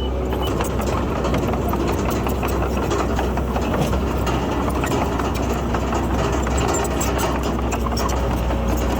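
Heavy diesel engine of construction machinery running steadily at an even pitch, with a continuous fast rattling clatter over it.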